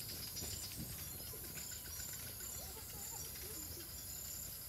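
Faint rural outdoor ambience: distant birds calling in short, scattered phrases, with a faint high chirp repeating about twice a second.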